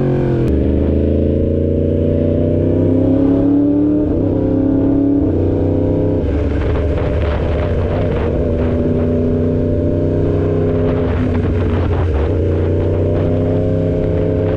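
A 2016 Yamaha R1's crossplane inline-four engine running under way. Its pitch drops sharply about half a second in, then climbs slowly, with further shifts in pitch around four to six seconds in as the bike changes speed.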